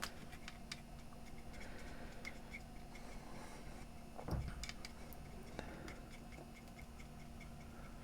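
Quiet workbench handling sounds: scattered small clicks and one soft bump about four seconds in, over a faint regular ticking about three times a second and a steady low hum.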